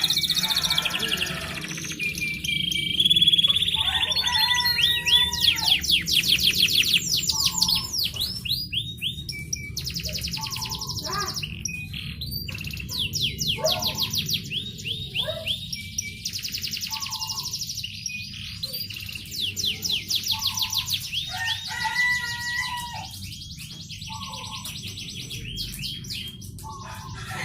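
Canary singing a long song of fast rolling trills and chirps, the phrases following one another with only brief breaks.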